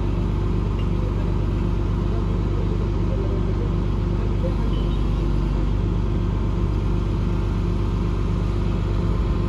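A large engine running at a steady speed: a low, even drone that doesn't change pitch.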